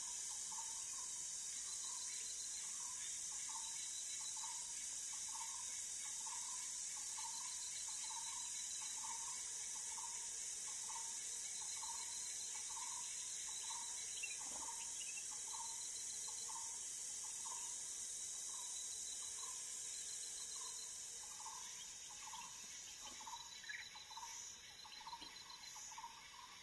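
Forest ambience of insects, crickets or cicadas, keeping up a steady high drone that fades down after about 20 seconds. Over it an animal repeats a short low call about one and a half times a second.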